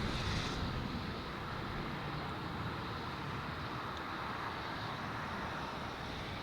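Steady engine noise of a landing Boeing 787 jet airliner, heard at a distance over wind on the microphone.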